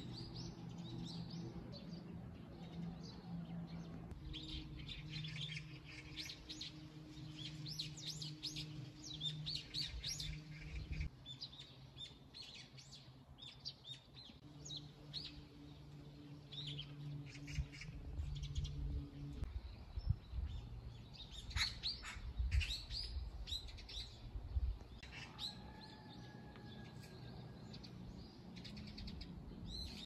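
Small birds chirping in quick, short calls, on and off throughout. A steady low mechanical hum lies underneath and stops twice, for good about two-thirds of the way through.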